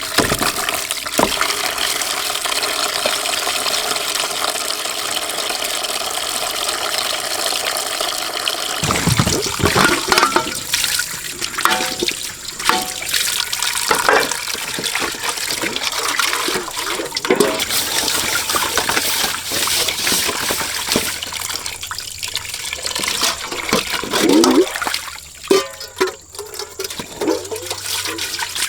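Running water: a steady rush of flowing water for the first several seconds, then uneven splashing and sloshing with scattered knocks.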